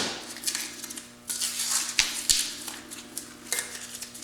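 Masking being peeled and pulled off a freshly painted tractor engine: bursts of rustling, tearing noise with a few sharp clicks, over a faint steady low hum.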